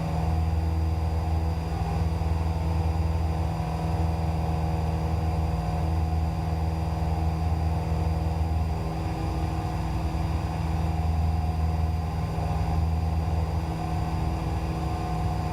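Cessna 172's piston engine and propeller running steadily at climb power, an even drone heard from inside the cabin.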